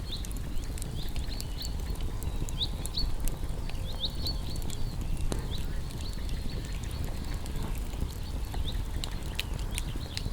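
Campfire of burning wood crackling, with irregular sharp pops over a steady low rumble of the flames. Short high-pitched chirps sound on and off above it.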